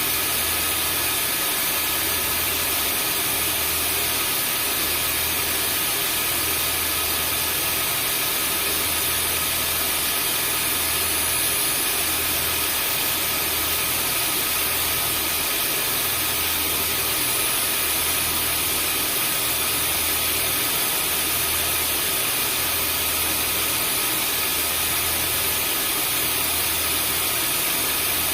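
Vacuum cleaner running steadily, used as white noise to soothe a newborn: an even whooshing hiss with steady high motor tones, under a low throb that swells and fades about every two seconds.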